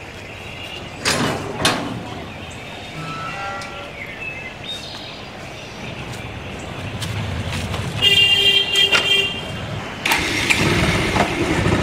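A motorcycle engine starts about ten seconds in and runs steadily. Just before it, a horn toots for about a second, and near the start there are two sharp knocks.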